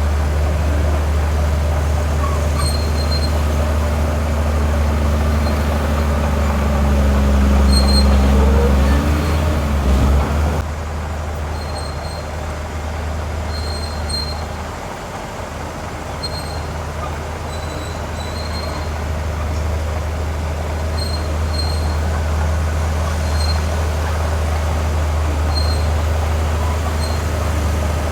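Heavy diesel engine of earthmoving machinery running under load, a steady deep drone that swells with a rising, bending pitch around eight seconds in, then drops suddenly in level a little after ten seconds and runs on more quietly.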